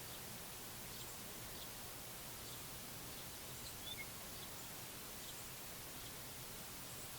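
Faint outdoor ambience: a steady hiss with scattered faint, short, high bird chirps, and two brief clearer chirps about four seconds in.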